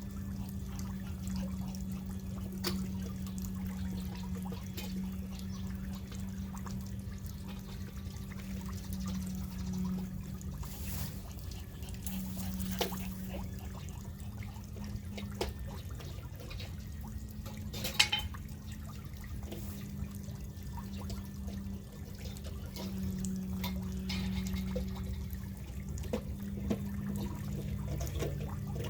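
Pond water trickling steadily over a steady low hum, with scattered light clicks; the sharpest click comes about two-thirds of the way through.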